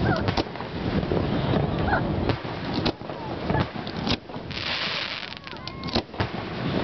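Aerial fireworks shells bursting: an uneven string of sharp bangs and crackles, several close together, over a steady rush of wind on the microphone.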